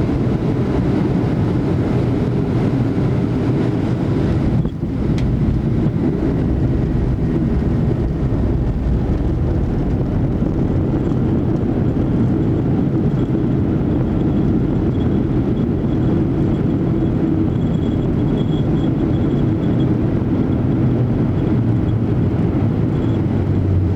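Steady, loud rumble heard from inside the cabin of a Boeing 737-800 during landing, from its engines and airflow, with a brief dip about five seconds in.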